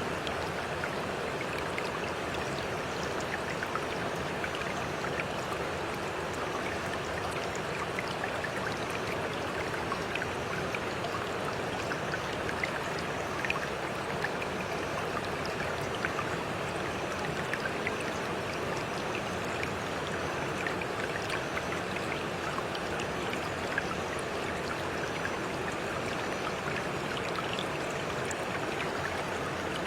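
Water running in a stream: a steady babbling flow with small drips and splashes scattered through it.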